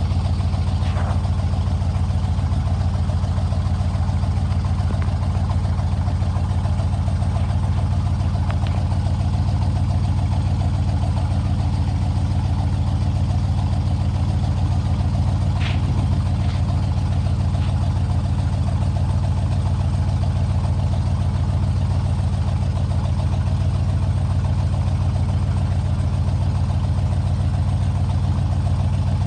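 1974 GMC 6500 truck engine idling steadily, with a few faint brief ticks.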